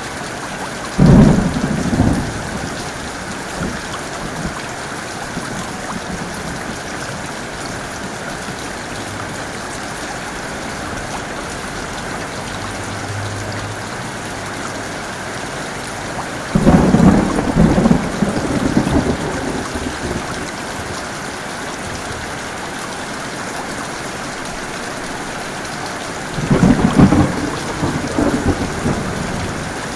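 Heavy rain falling steadily, with three thunder claps rolling into rumbles: one about a second in, a longer one just past the middle, and another near the end.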